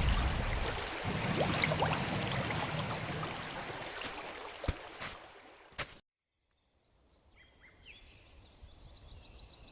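Outdoor ambience noise slowly fading out, with two sharp clicks near its end, then a couple of seconds of silence. Faint bird chirps and a quick high trill come in near the end.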